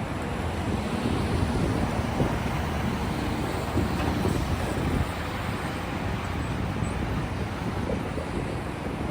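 Freight train's grain hopper cars rolling past, a steady rumble of steel wheels on rail with a few faint clicks.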